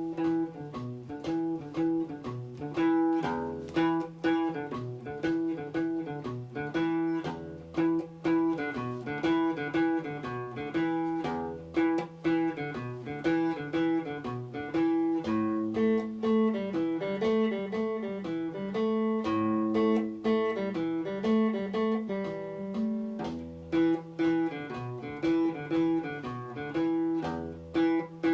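Guitar playing a blues riff in E at a slowed practice tempo of 120 beats a minute. The repeating low-string pattern moves up to higher riffs about halfway through and returns to the E riff near the end.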